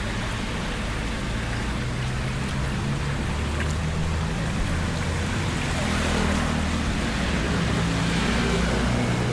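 Rushing floodwater with a steady low engine hum underneath, the hum shifting slightly in pitch.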